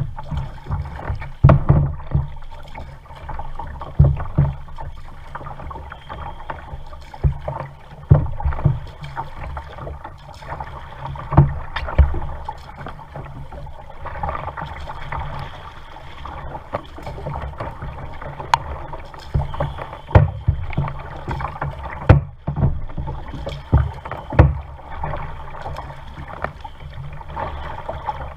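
Kayak being paddled on a lake: water splashing and lapping, with irregular low thumps and knocks every second or two as the paddle strokes and the water hits the hull.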